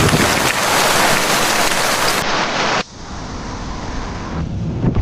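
Heavy rain falling hard as a dense hiss, cutting off abruptly about three seconds in to lighter, quieter rain.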